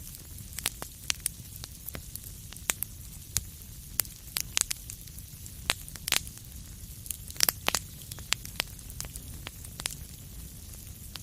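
Wood fire crackling: irregular sharp pops and snaps, several a second, over a steady low rumble of the flames, with a few louder pops about four to seven and a half seconds in.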